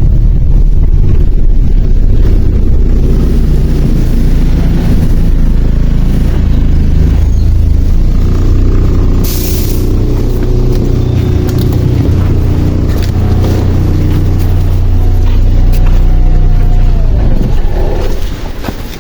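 MAZ 103 city bus heard from inside, its engine running loudly as the bus drives, the engine note changing with speed. A short burst of hissing air comes about halfway through, and near the end the engine note falls and the sound drops off.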